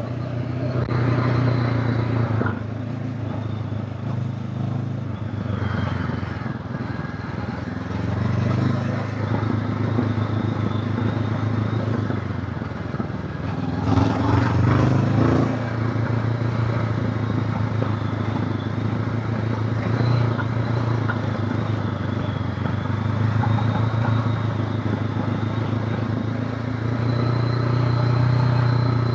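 Honda CB500X's parallel-twin engine running under way, its note rising and easing with the throttle, with a louder, rougher clattering stretch about halfway through.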